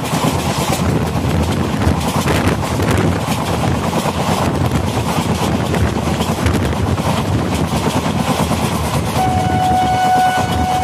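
Indian Railways express coach running at speed, heard from an open window: a steady rush of wind and wheels on the rails. About nine seconds in, the locomotive's horn sounds one steady note for about a second and a half, the warning blown for a whistle board.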